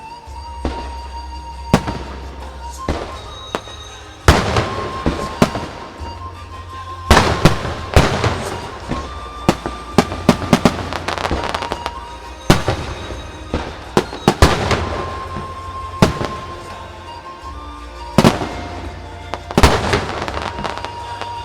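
Fireworks shells bursting overhead, a string of sharp bangs with crackle after them, coming in quick clusters and louder after the first few seconds, over music played for the show.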